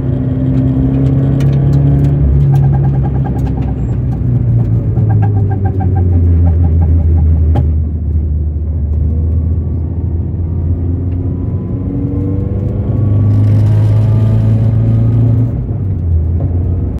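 Toyota 86 (ZN6) running with its FA20 flat-four engine humming steadily. A rapid, evenly repeating ticking from the rear comes through for a few seconds: an abnormal noise that the owner suspects comes from the differential or a driveshaft.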